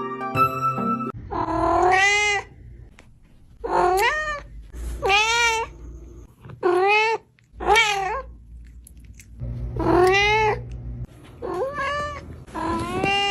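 A cat meowing about eight times in a row, each meow rising then falling in pitch, with short pauses between them.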